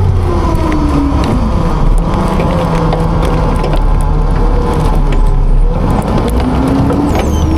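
Autocar-Heil Freedom front-load garbage truck packing: its engine, revved to drive the hydraulic packer, drops in pitch about a second in, holds lower, then revs back up near the end. Scattered cracks and crunches of garbage being compacted run through it.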